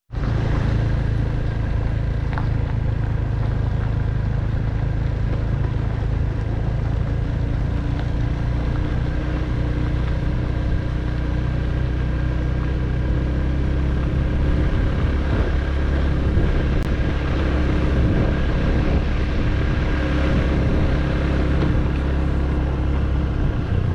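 A motor vehicle driving, with a steady low engine drone and road noise; a faint higher hum joins about seven seconds in.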